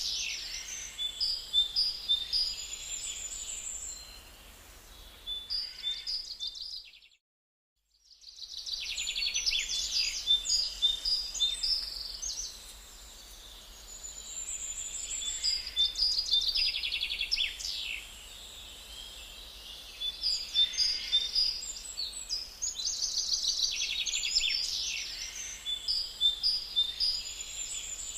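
Birds chirping and singing in high, repeated phrases that come in waves every few seconds. The sound cuts out completely for about a second, around seven seconds in.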